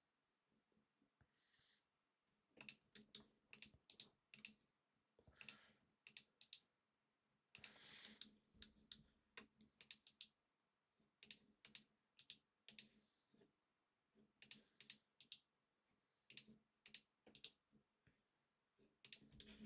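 Faint, irregular clicking of a computer mouse and keyboard, the clicks coming singly, in pairs and in short clusters.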